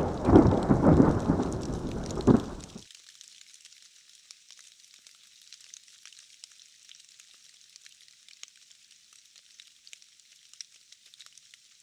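Thunderstorm: heavy rumbling thunder over steady rain for the first few seconds, cutting off abruptly about three seconds in. After that only the hiss of falling rain and the patter of scattered drops remain.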